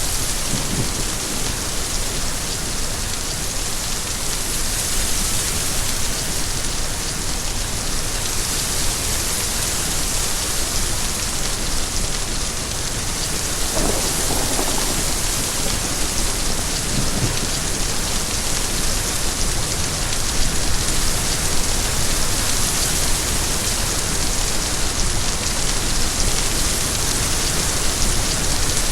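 Steady rain falling: a dense, even hiss of drops on a surface.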